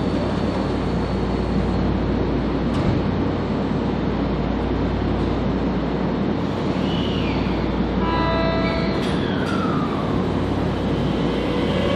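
Ueda Electric Railway electric train running on the rails: a steady rumble over a low motor hum, with a couple of brief falling whines.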